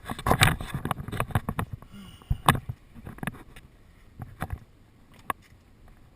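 Raindrops tapping on a window-mounted GoPro's housing in irregular sharp clicks, dense for the first second and a half, then sparser and fainter over a low rumble.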